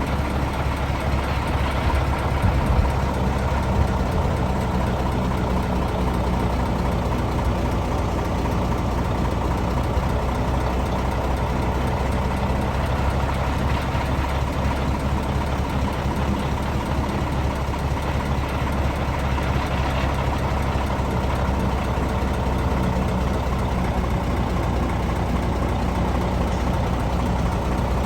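Cement mixer truck's diesel engine running steadily at a low, even idle.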